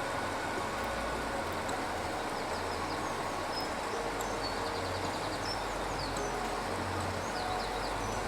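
Steady outdoor rumble and hiss, with faint high chirps and short trills scattered through it.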